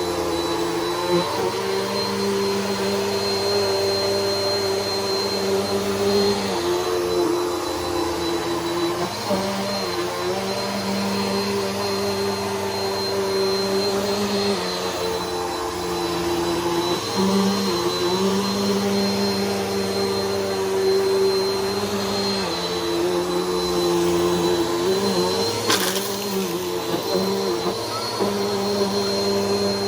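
Bissell PowerForce Helix upright vacuum running steadily, its motor hum with a thin high whine, the pitch dipping briefly every few seconds. A short click about 26 seconds in.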